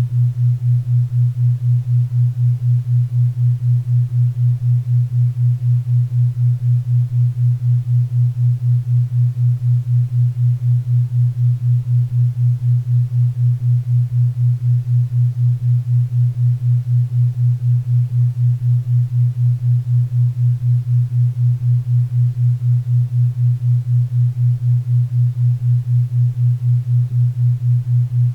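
Synthesized low tone beating at 4 Hz for theta-wave brainwave entrainment, pulsing evenly about four times a second over a faint bed of pink and brown noise.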